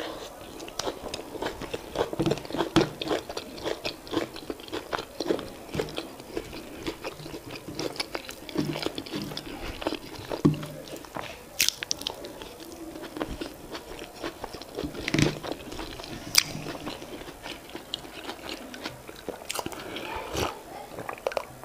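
Close-miked chewing and biting of soft boiled yam and sweet potato with leafy vegetable sauce, with frequent short wet clicks and smacks of the mouth.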